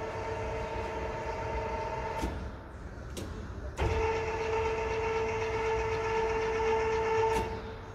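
Universal lathe running with a steady gear whine. It stops about two seconds in, starts again with a click a second and a half later, and stops once more near the end.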